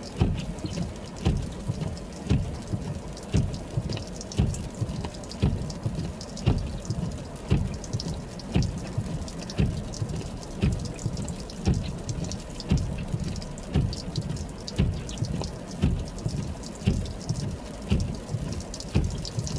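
Footsteps crunching through snow at a slow, even pace, about one step a second, each a low thump with a crisp crackle.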